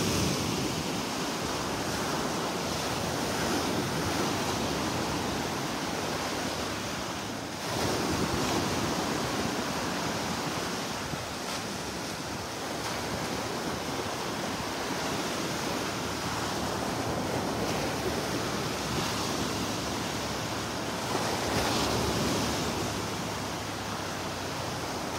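Gulf of Mexico surf washing onto a sandy beach, a steady rush that swells as a wave comes in about 8 seconds in and again a little past 21 seconds, with some wind on the microphone. The waves are kicked up by a passing thunderstorm.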